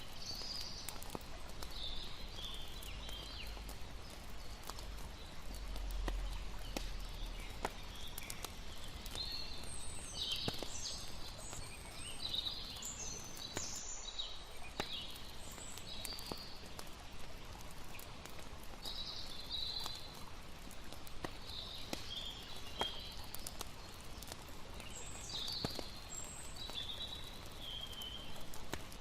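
Layered night ambience: a campfire crackling with frequent small pops over a steady hiss of running water, with short, scattered chirping calls of night creatures. A low rumble swells briefly a few seconds in.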